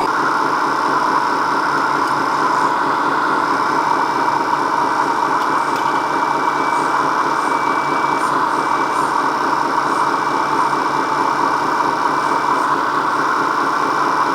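Radio-controlled model vehicle's motor and gearbox running steadily, with a thin high whine over the middle part.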